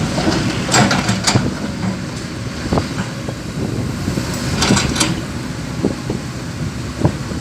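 Truck engine running steadily during coal unloading, with a few sharp knocks about a second in and again near the five-second mark.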